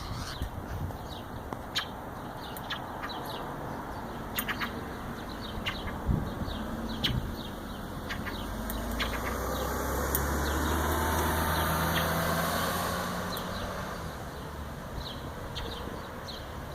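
A vehicle's engine passes, swelling over several seconds midway and then fading. Short, high bird chirps are scattered throughout.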